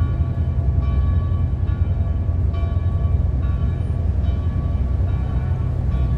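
A train rumbling past, a deep steady rumble throughout. Over it come high ringing tones that change roughly every second.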